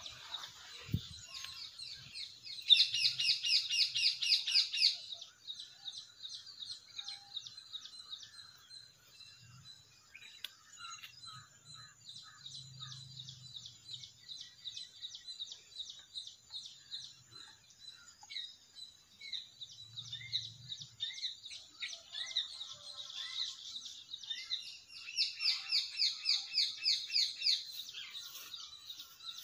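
Birds chirping, with a loud, rapid trill about three seconds in and another near the end.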